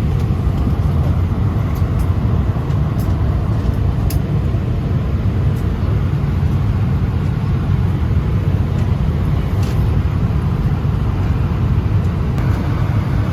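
Steady low rumble inside an Airbus A320 cabin parked at the gate, from the aircraft's air-conditioning and ground systems, with a few faint clicks.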